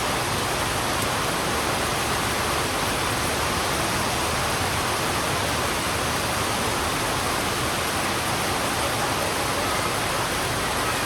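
Heavy rain falling steadily, an even hiss with no breaks or changes in level.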